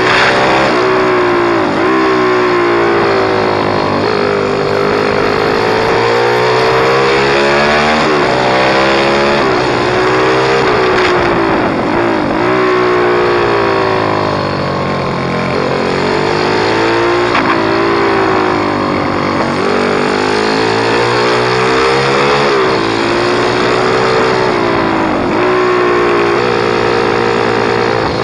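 Pit bike engine being ridden hard, revving up and down over and over, its pitch climbing and then dropping every couple of seconds as the bike accelerates and slows.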